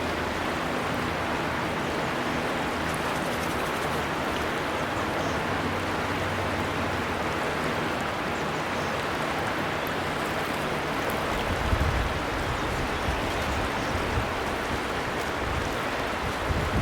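River water flowing steadily, an even rushing sound; low rumbles come and go over the last few seconds.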